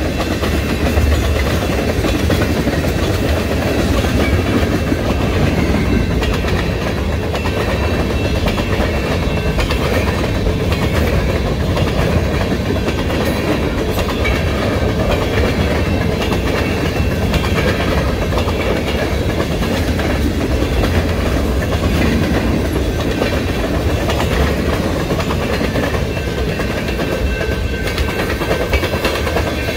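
Freight cars of a Canadian National mixed freight train rolling past close by, a steady, unbroken run of tank cars, covered hoppers and lumber-loaded flatcars, their wheels running over the rails.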